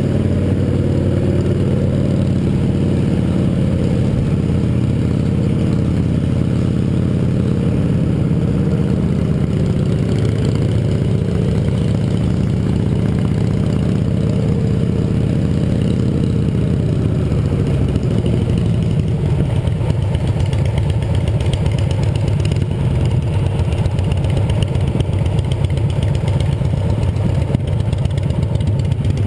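Yamaha XT 660R's single-cylinder four-stroke engine running as the motorcycle is ridden, its note shifting up and down, then dropping to a lower, choppier beat about two-thirds of the way through.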